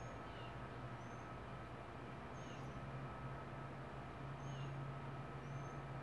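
Faint high chirps from a small bird, short and dipping in pitch, repeating about once a second, over a steady low hum.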